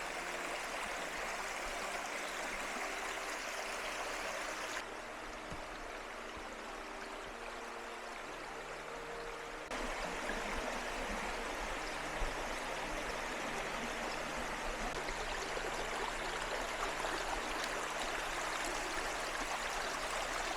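Brook flowing over riffles: a steady rush of running water that drops a little about five seconds in and comes back up about ten seconds in.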